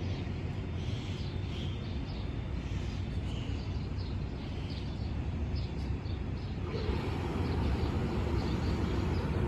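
Steady low rumble of the stopped Amtrak train's idling Siemens ALC-42 Charger diesel locomotives, with small birds chirping over it. About two-thirds of the way through, a broader wash of noise grows louder.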